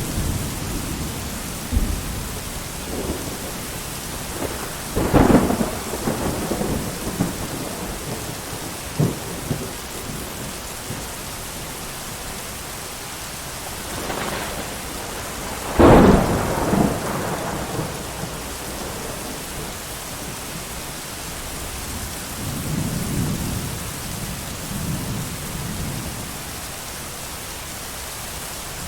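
Thunderstorm: steady heavy rain with thunder. Two sharp cracks break into rumbles about 5 and 16 seconds in, the second the loudest, and a softer roll of thunder follows later.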